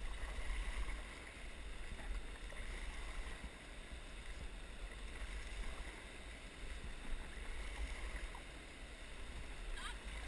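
Steady rush of river water and wind buffeting the microphone on a raft moving along the river, a low, even rumbling hiss with no single event standing out.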